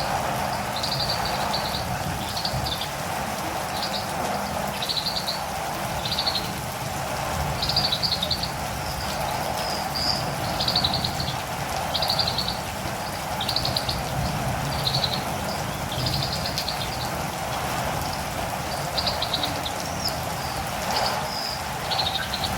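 Steady rain, with a catirumbava (olive-green tanager) giving short, high chirps about once a second.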